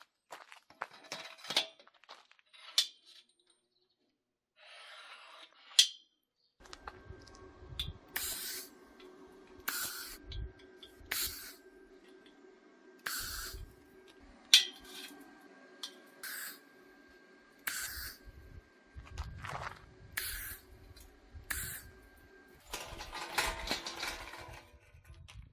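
A small motor runs steadily for about sixteen seconds, with a short hiss about every second and a half. Before it starts there are scattered light clicks and knocks.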